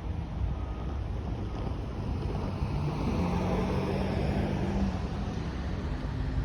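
Wind buffeting the microphone over the low rumble of an approaching freight train's diesel locomotives. A steady low drone rises out of the rumble about three seconds in and fades about two seconds later.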